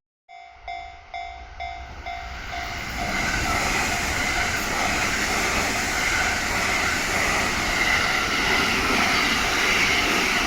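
Japanese level crossing's warning bell ringing in a quick repeating clang, about two to three strikes a second, as a JR Kyoto Line train approaches. About two seconds in the passing train's wheel and track noise rises and stays steady, drowning out the bell.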